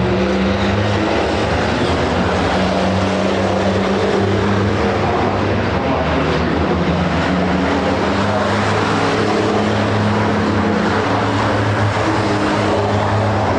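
Racing trucks' diesel engines running on track: a loud, steady low engine drone with little change in pitch.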